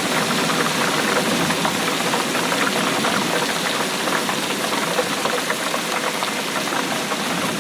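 Steady rain falling, a dense patter of drops at an even level.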